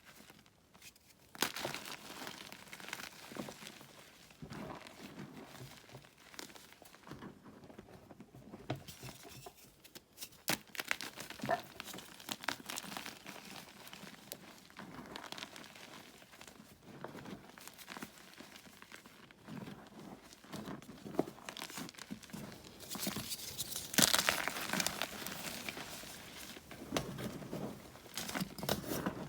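Blocks of plain gym chalk being crushed and crumbled, giving irregular crunching and crackling with powdery crumbling between; a louder, denser run of crunching comes about two-thirds of the way through.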